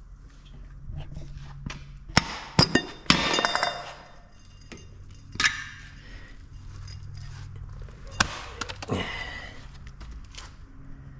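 Hammer blows on a stuck piston, driving it out of a cylinder of a DeSoto Hemi engine block. There is a quick cluster of sharp metallic knocks about two to three seconds in, some of them ringing, then single knocks around five seconds and eight to nine seconds in.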